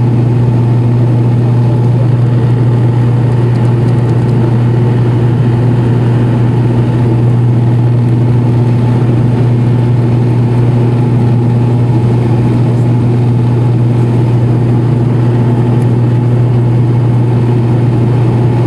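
Airliner engines droning steadily during the climb after take-off, a loud, unchanging low hum with fainter tones above it.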